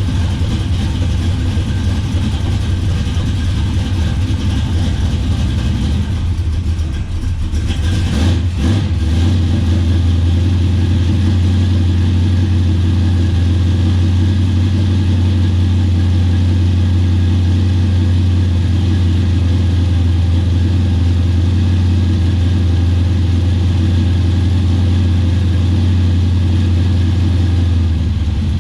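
Ford 460 big-block V8 with a twin tunnel ram and twin Holley carburettors running steadily with a deep, even note. About seven seconds in it dips briefly, then settles into a slightly louder steady run.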